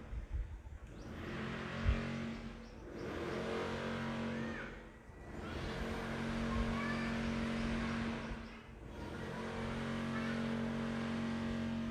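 A steady low hum under a broad hiss-like noise that swells and fades every few seconds, with a few faint chirps.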